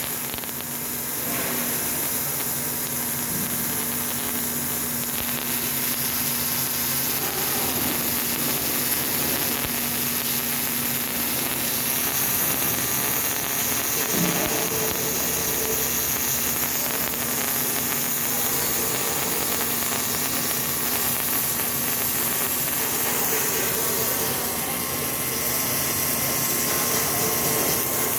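Steady industrial machinery noise: an even hiss with a constant low hum.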